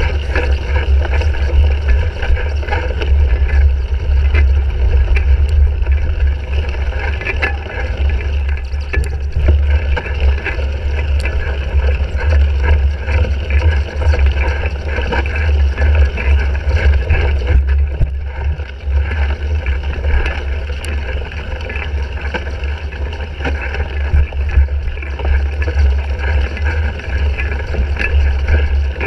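Wind rumble on the microphone of a bike-mounted GoPro Hero 3 during a cyclocross race, with a constant chatter of small rattles and clicks from the bike over rough ground.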